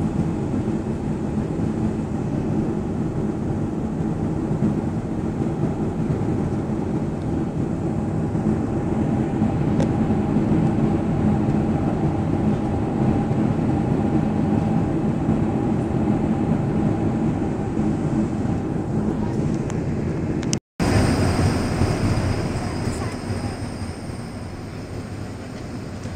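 Jet airliner cabin noise: a steady rumble of engines and airflow with a low hum running through it. About 21 seconds in the recording cuts, and the noise that follows fades down over a few seconds.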